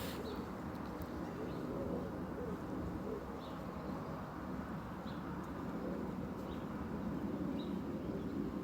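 Steady background noise with short, faint bird chirps every second or two.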